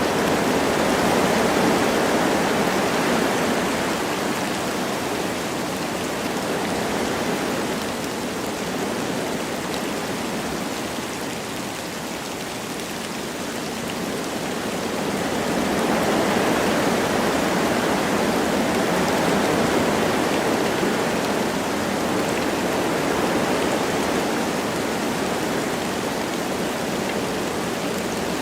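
Wind blowing through forest trees with light rain, a steady rushing that swells and eases in slow gusts: stronger about a second in and again just past halfway, with a lull in between.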